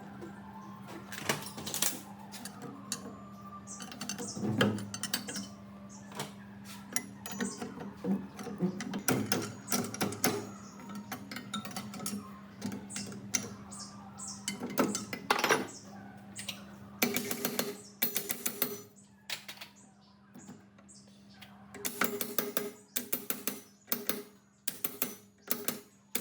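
Metal parts and hand tools clinking and knocking in irregular taps over a steady low hum, with runs of regular taps about two a second near the end.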